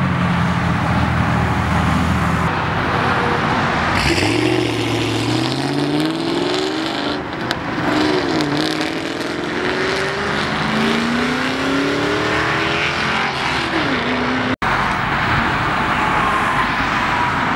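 A car engine running close by, then a car pulling away hard, its engine note rising and falling back several times as it accelerates. The sound cuts out for an instant near the end.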